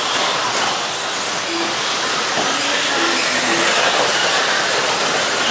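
A pack of 1/10-scale electric stadium trucks with 13.5-turn brushless motors racing on an off-road track: a steady, dense hiss and whine of motors and tyres on dirt.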